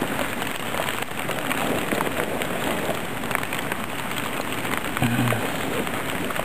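Steady rain falling, with many small drop hits close to the microphone. A brief low tone sounds about five seconds in.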